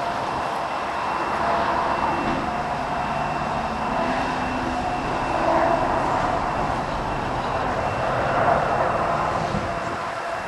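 Ex-Canadian National 0-6-0 steam locomotive no. 7312 running light: a continuous rushing noise that swells and eases every few seconds, with a faint steady high tone through it.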